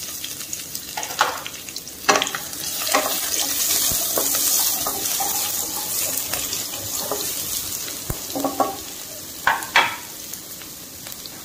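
Chopped garlic, green chillies and whole spices sizzling in hot mustard oil in a kadai, stirred with a spatula that scrapes over the pan, with a few sharp knocks against it.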